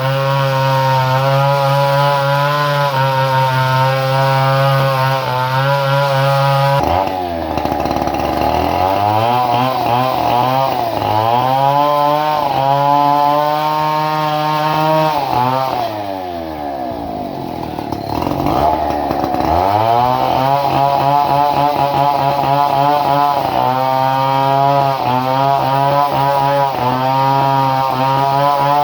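Two-stroke chainsaw engine running at high speed, throttled back to idle about seven seconds in, then revved up and down. It drops to idle again past the middle and is held at high speed once more for the last third. The saw is being test-run after an ignition modification.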